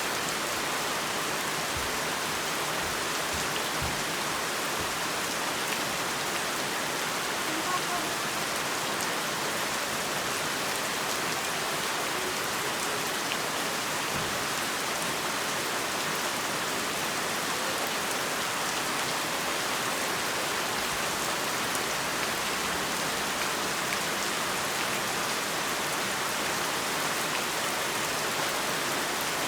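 Heavy rain falling steadily: a dense, even hiss of rain on surfaces with scattered individual drop ticks.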